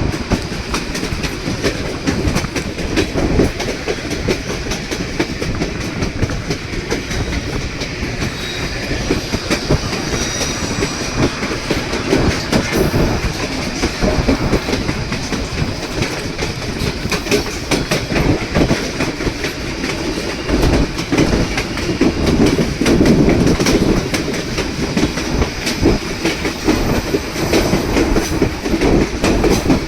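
Narrow-gauge passenger train running along the track: a steady rumble and rattle of the car with the wheels clicking over the rail joints, a little louder in the last third.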